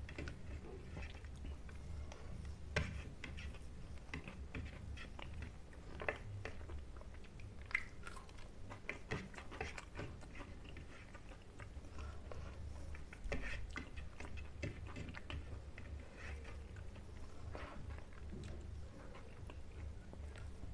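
A person chewing mouthfuls of rice and spicy fish curry eaten by hand, with scattered wet clicks and smacks, over a steady low hum.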